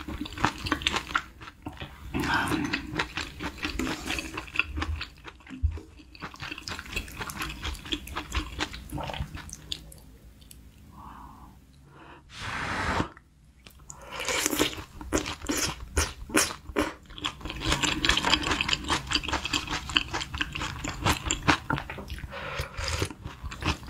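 Close-miked eating sounds: wet, clicking chewing of beef intestines and onion from a spicy hot pot, with sips of broth from a wooden spoon. A brief louder rush comes about halfway through, after a quieter stretch.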